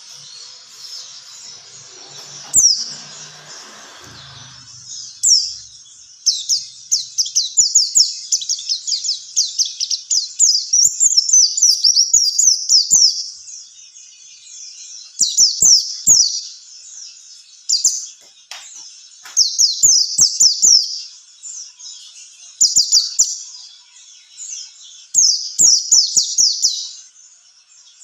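White-eye (pleci) song: bouts of rapid, high-pitched chirps a few seconds long, with short pauses between them.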